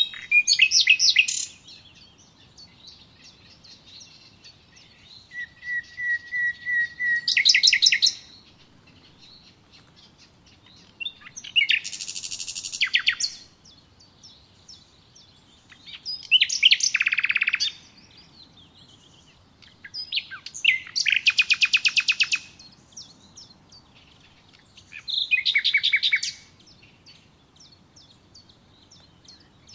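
Songbird singing: six short phrases of quick high trills and chirps, one every four to five seconds, with faint chirping between them. One phrase begins with a held whistled note before breaking into a trill.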